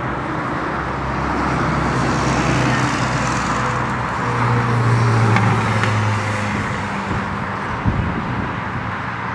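A vehicle passing: a steady rush of noise with a low hum that swells in the middle and then fades.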